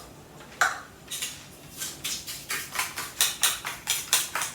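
Cutlery beating egg and sugar in a bowl: a single clink, then quick rhythmic strokes against the bowl at about four a second, getting louder from about two seconds in.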